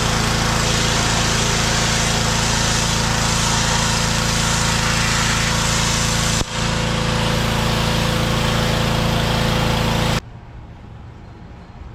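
Gas-engine pressure washer running steadily, its small engine under a loud spray hiss. It breaks off for an instant partway through, then cuts off abruptly about two seconds before the end, leaving a much quieter background.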